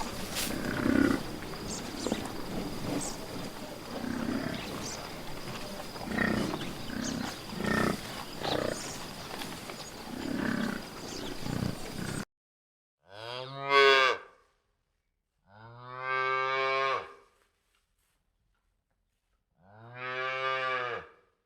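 Low, irregular animal calls over a steady background hiss; then, after an abrupt cut, a cow mooing three times: one short falling moo and two longer, level moos.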